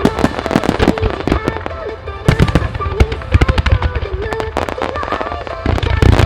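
Starmine fireworks bursting in rapid succession, sharp bangs and crackles one after another, with deep booming from big shells near the end. A pop song with singing plays over loudspeakers beneath the bursts.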